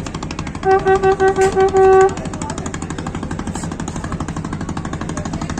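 Fast, even rattle of a moving train. About a second in, a single-pitched horn sounds six short toots and then a longer one.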